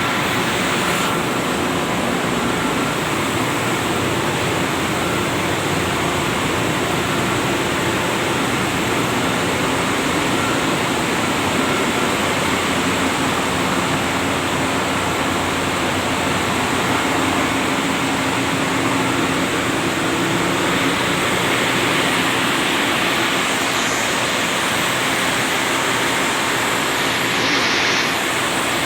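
Ship's engine-room machinery running: a loud, steady mechanical din with faint steady tones, without a break.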